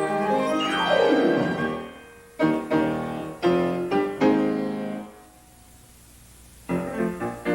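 Piano accompaniment music: a quick falling run about a second in, then three struck chords, a pause of about a second and a half, and the music starting up again near the end.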